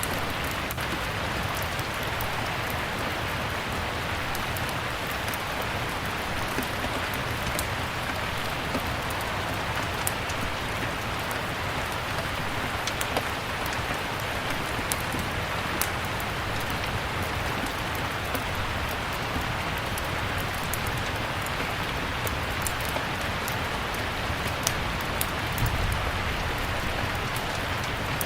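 Steady rain falling with a wood fire crackling, its sharp pops scattered irregularly over the even hiss of the rain.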